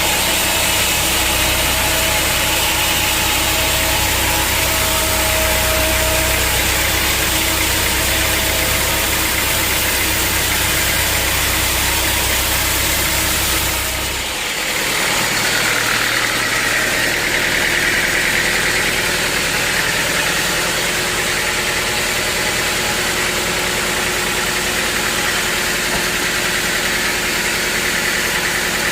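Sawmill machinery running steadily with a deep engine-like rumble. About halfway through the sound changes abruptly: the low rumble drops away and a steadier, higher whine takes over.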